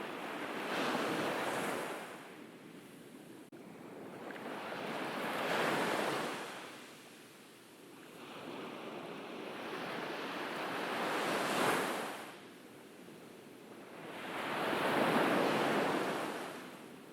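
Ocean waves breaking and washing up on a beach, the surf swelling and fading four times, every four to five seconds.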